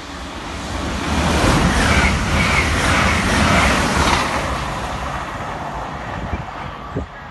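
Grand Central Class 180 diesel multiple unit passing close by at speed without stopping: a loud rush of engine, wheel and air noise that builds about a second in, peaks for about three seconds, then fades away.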